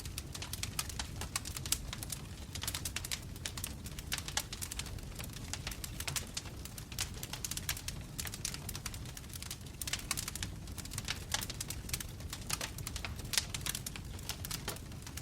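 Wood fire crackling, with dense irregular pops and snaps over a steady low rumble of the flames.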